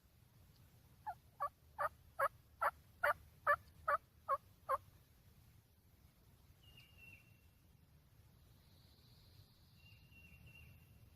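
A run of about ten evenly spaced turkey yelps, each note dropping in pitch, at roughly three a second, starting about a second in and stopping before the halfway point. Faint thin high bird chirps come later.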